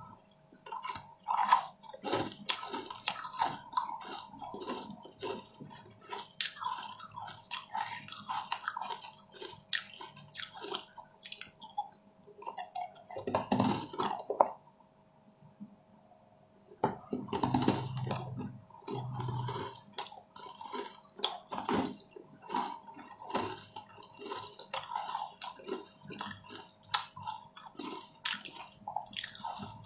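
Close-miked chewing and wet mouth sounds, with many small smacks and clicks. It pauses briefly about halfway through.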